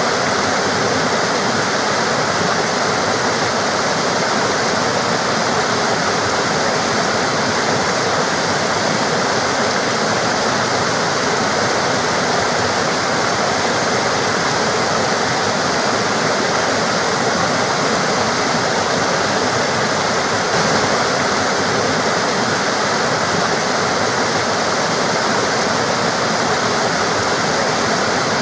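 Water flowing and splashing in a forest stream, a steady, even rush with no breaks.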